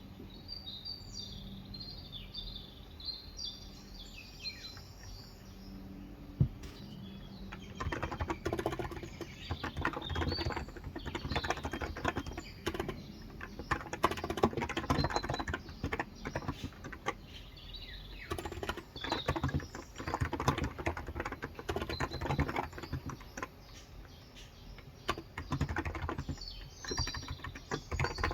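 Small birds chirping, then from about eight seconds in, fast irregular runs of typing on a Cox Endeavor electro-capacitive (Topre-style) tenkeyless keyboard with 35 g switches, with a brief lull before the typing resumes. Birds chirp again near the end.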